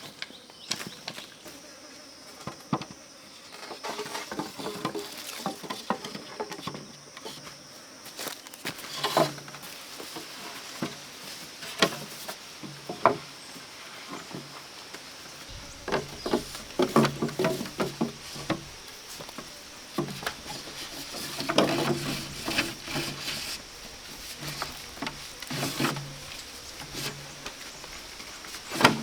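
Irregular knocks, clicks and rustling of hand work with wood and brush, coming in clusters every few seconds. Behind them runs a steady high insect buzz.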